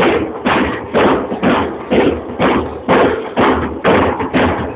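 Carnival parade drumming: drums beaten in a steady march rhythm, about two strong strokes a second with lighter strokes between.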